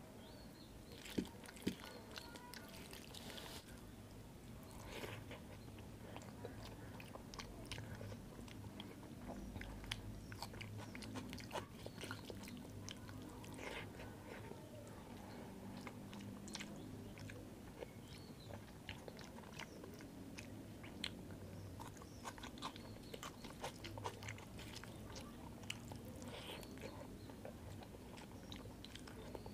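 Close-miked chewing and wet mouth sounds of someone eating rice and curry by hand, with many small clicks and smacks throughout and two sharp clicks about a second in.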